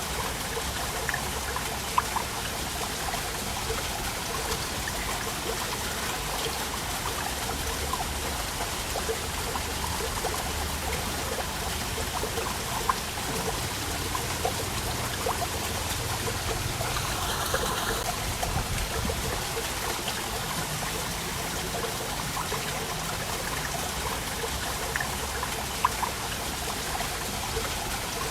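Small waterfall: a steady trickling, splashing rush of falling water, with a few sharper splashes standing out now and then.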